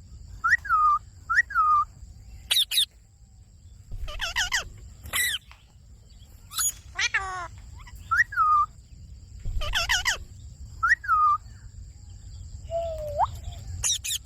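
Ringneck parrot calling in short bursts, about a dozen in all. Clean falling whistles alternate with harsher, wavering screechy calls, and a rising whistle comes near the end.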